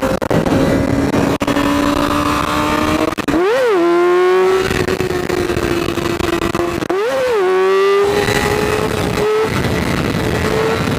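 Honda CBR600 sport bike's inline-four engine under way, its note climbing slowly, with two quick throttle blips that spike and drop back about 3.5 and 7 seconds in. Wind rushes over the helmet microphone throughout.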